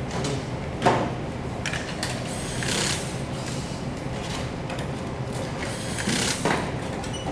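Workshop work sounds over a steady background hum: a sharp knock about a second in, then two short bursts of mechanical noise.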